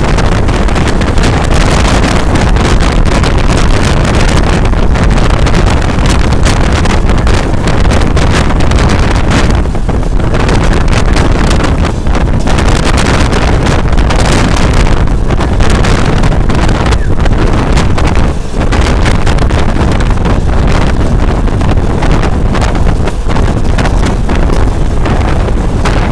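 Wind buffeting the microphone hard on a moving train, over the train's steady running noise.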